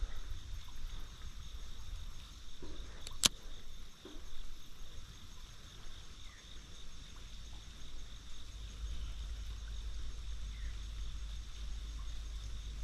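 Insects chirping steadily in a high band, with a low rumble underneath and one sharp click about three seconds in.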